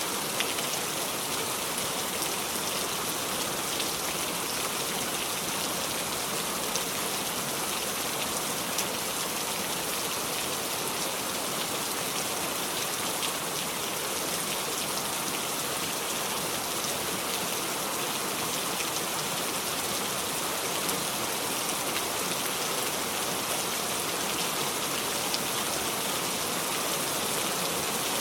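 Steady, constant rain without thunder, with faint individual drops ticking now and then.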